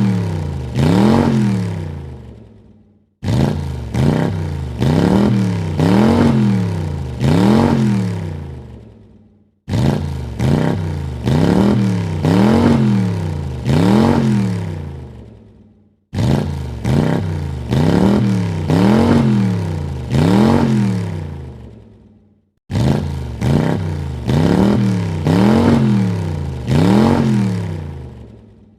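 Car engine revved in four quick blips, the pitch rising and falling with each one and the last dying away. The same rev sequence repeats about every six and a half seconds, with a brief gap of silence between repeats.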